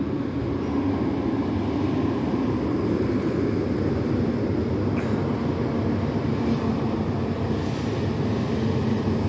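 Short tram-style metro train pulling into the station: a steady rumble that grows a little over the first two seconds. There is a single faint click about five seconds in.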